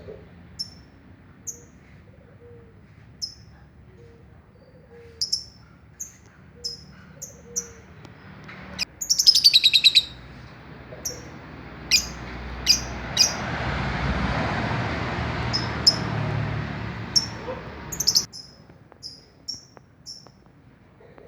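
A caged songbird chirping: short, sharp, high chirps repeated every second or so, with a fast trill about nine seconds in. In the middle, a rushing noise swells and fades over several seconds.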